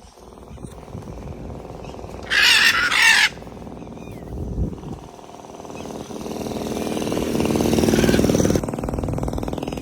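A parrot gives a loud, harsh squawk in two quick bursts about two seconds in. Later a motor vehicle's engine hums, growing steadily louder and then dropping back near the end.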